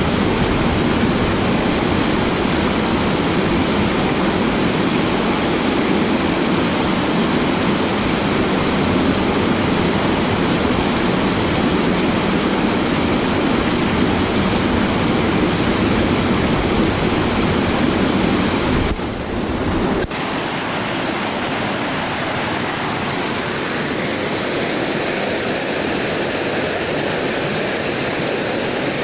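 Steady, loud rush of water falling or flowing. About two-thirds of the way through it changes abruptly to a slightly quieter, thinner rush.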